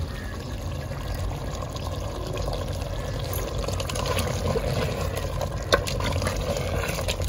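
Biryani masala and tomatoes cooking in oil in a pot, giving a steady sizzle, with one sharp clack about three-quarters of the way through.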